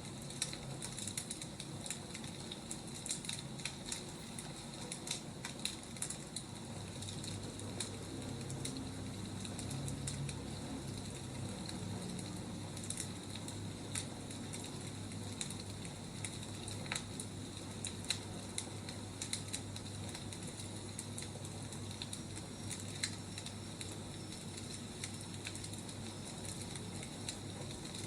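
Wood fire crackling: irregular sharp pops and snaps over a steady low rustle of burning logs.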